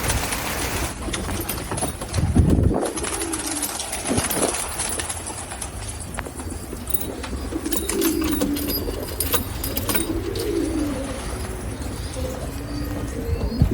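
Pigeons cooing, a series of low rolling calls repeating through the second half. A loud low rumbling thump comes about two seconds in.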